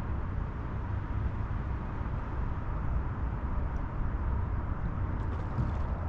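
Steady low rumble of wind buffeting the microphone outdoors, with a few faint light ticks near the end.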